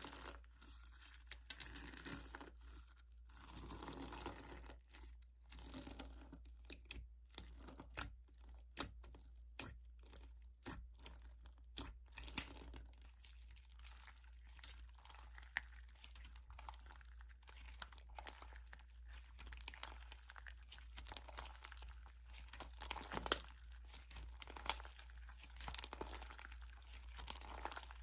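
Slime being squished and stretched by hand, with many irregular crackling, crunching clicks.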